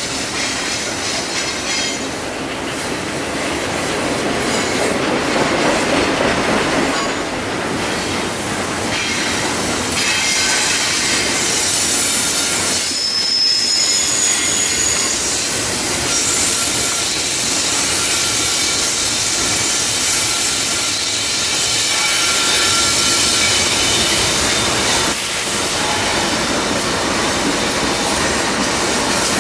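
Double-stack container well cars of a freight train rolling past on a curve, a steady loud rumble of wheels on rail. High-pitched wheel squeals come and go, strongest about halfway through.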